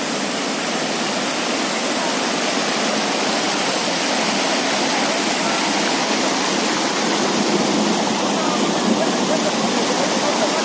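Heavy rain falling, a loud steady hiss of water with no breaks.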